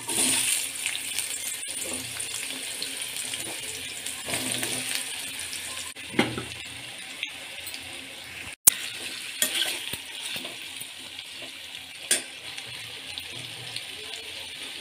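Raw potato strips sizzling in hot oil in a stainless steel kadai, the sizzle starting suddenly as they go in, with a few sharp clinks of a steel spoon against the pan as they are stirred.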